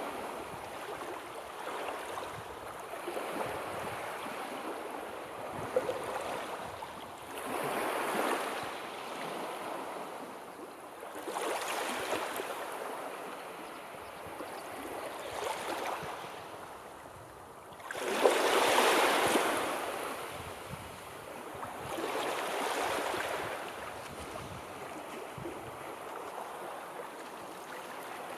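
Sea waves washing in, the rush of water swelling and dying away about every three to four seconds, with the biggest wave a little past the middle.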